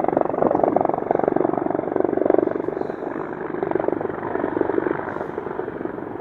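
Large military helicopter flying near, its rotor blades making a rapid chopping pulse, loudest over the first couple of seconds and then easing off.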